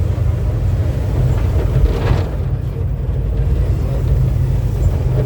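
Diesel engine of a VW 17-230 OD bus chassis running, a steady low drone with road noise, and a short hiss about two seconds in.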